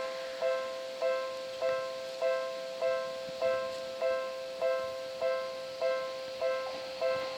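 Japanese railway level-crossing warning bell ringing: a two-note electronic ding repeated steadily, about one and a half strikes a second, the signal that a train is approaching.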